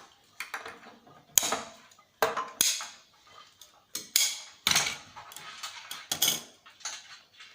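Hand tools clicking and clattering against the TV's metal and plastic parts: about eight sharp, irregular clicks and knocks, some ringing briefly.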